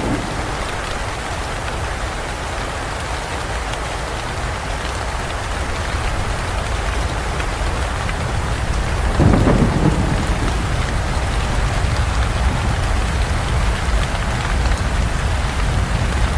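Steady heavy rain falling, with one low rumble of thunder swelling up about nine seconds in and fading over a second or two.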